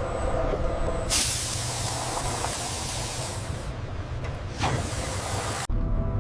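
Sprayers hissing: a loud, even spray hiss starts about a second in, thins briefly past the middle, and cuts off suddenly near the end, over a low steady rumble.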